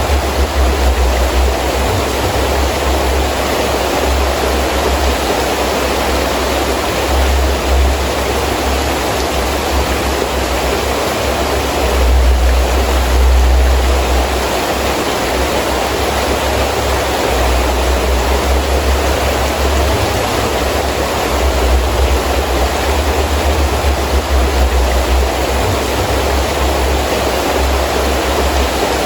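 Heavy rain falling steadily, with wind gusting in a low rumble that rises and falls, swelling most about twelve seconds in.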